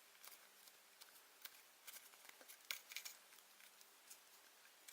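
Faint, scattered small clicks and light handling noises, typical of Play-Doh tools and plastic pieces being handled on a tabletop, over near silence.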